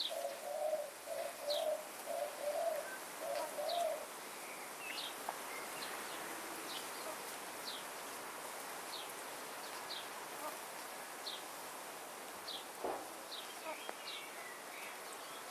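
Pet birds calling: a low, repeated cooing over the first four seconds, and a short, high, falling chirp repeated about once a second throughout.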